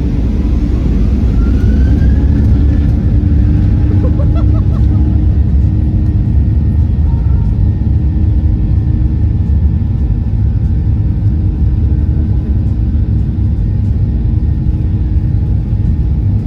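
Steady, loud rumble of a Spring Japan Boeing 737-800 jet airliner's engines and airframe heard from inside the passenger cabin, with a faint rising whine over the first couple of seconds.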